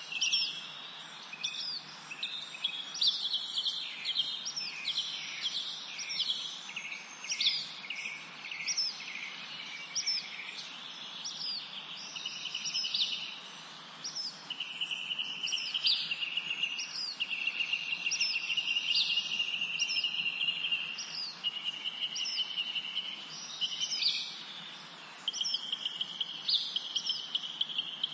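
Birds chirping and trilling, with short high notes about once a second and longer steady trills, over a steady background noise. The calls are high and thin, not the harsh crow of a pheasant.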